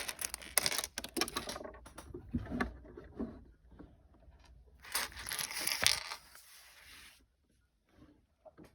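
Small plastic Lego pieces clattering as a freshly opened bag of bricks is handled and emptied: dense small clicks for the first few seconds, a louder rattling rush about five seconds in, then near quiet.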